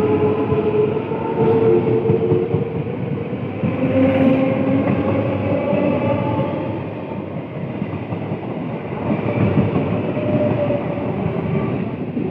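Electric multiple unit (EMU) local train running past alongside a platform: a steady, loud rumble of the wheels on the rails, with faint whining tones over it.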